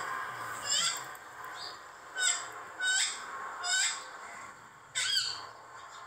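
A bird calling in the background: short chirps repeated about once a second, each a quick sweep in pitch.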